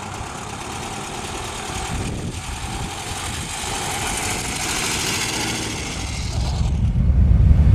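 1965 Volkswagen Beetle's freshly rebuilt 1641cc air-cooled four-cylinder engine running at low speed as the car rolls slowly forward. A louder low rumble swells in near the end.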